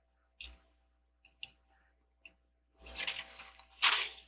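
Plastic Lego bricks clicking a few times, then rattling and clattering as loose pieces are rummaged through, loudest near the end.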